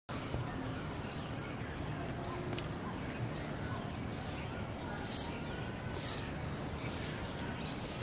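Small birds chirping over a steady outdoor background, with a high hiss pulsing about once a second in the second half.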